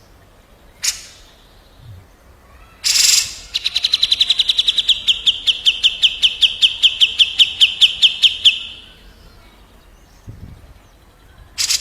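A songbird's rapid rolling trill of evenly spaced notes, about six a second at a nearly steady high pitch, lasting some five seconds. Before it come a single sharp note and a short harsh burst.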